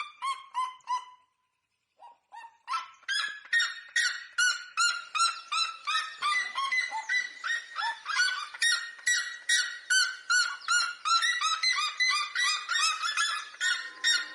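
Bird calling in long series of loud, yelping notes, about three or four a second, each note sliding down in pitch. One series fades out about a second in, and after a short pause a new series builds up and carries on with overlapping notes.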